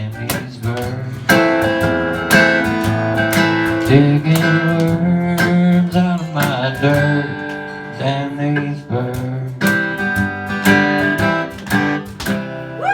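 Acoustic guitar strummed and picked through chords, the instrumental close of a country song after the last sung line.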